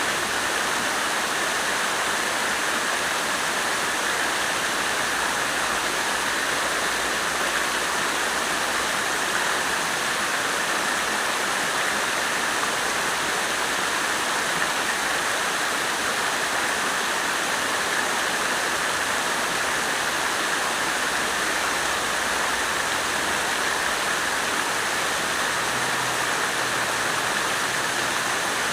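Water fountain running, its falling water splashing steadily and evenly without a break.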